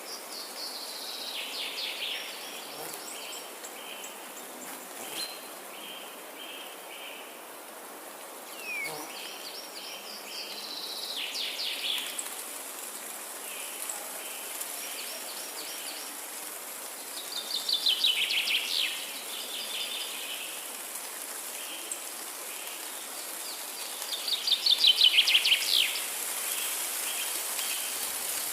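Forest birdsong: a bird repeats a song phrase of rapid falling notes, loudest twice in the second half, while another calls in a run of short, evenly spaced notes. A steady high hiss lies underneath.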